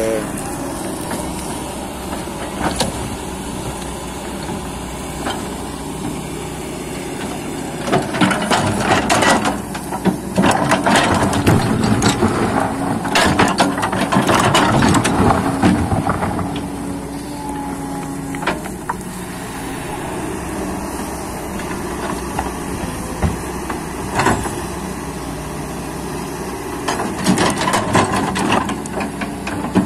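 Excavator's diesel engine running steadily under load. Bursts of clanking and scraping come from about 8 to 16 seconds in and again near the end, as the machine works soil and rock.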